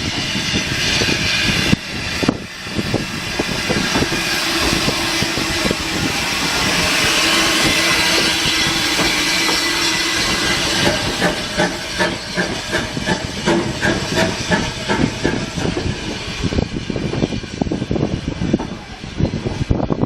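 Steam locomotive blowing off steam with a loud, steady hiss that swells towards the middle. About halfway through, a run of quick, regular knocks comes in over the hiss.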